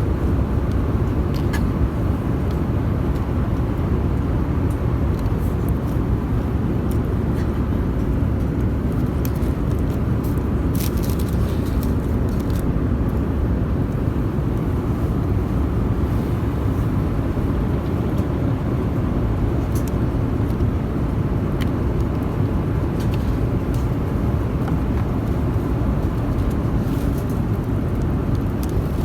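Airliner cabin noise in flight: a steady, loud, low rumble of engines and airflow, with a few faint clicks.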